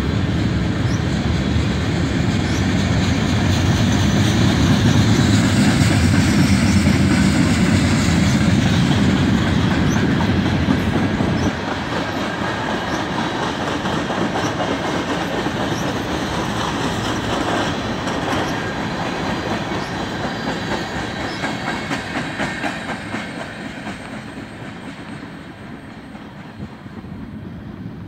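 Freight train of tank cars and covered hopper cars rolling past, its steel wheels clicking over the rail joints. The noise drops a step about a third of the way in and fades away over the last several seconds as the end of the train passes and recedes.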